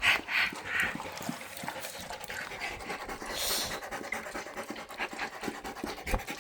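A dog panting hard in quick, repeated breaths, with light clicking throughout. The dog is hot after play outdoors in humid air.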